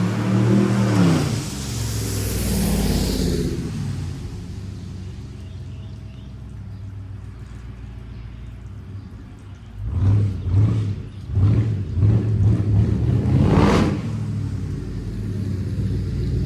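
Rebuilt car engine, its misfires just repaired, pulling the car along. The revs rise and fall at the start, settle to a quieter cruise, then about ten seconds in it revs up hard several times in quick succession, with a brief rush of noise near the end.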